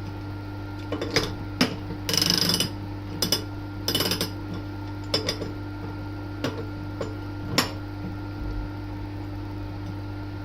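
Steel tools clinking and knocking against metal: about eight sharp knocks and a short rattle about two seconds in, over the steady hum of a running machine.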